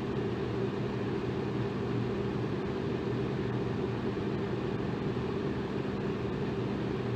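Electric fan running steadily: a constant airy whoosh with a low hum from the motor.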